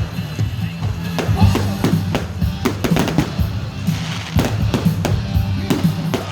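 Music with a heavy bass beat playing loudly, with frequent sharp fireworks bangs and crackles over it.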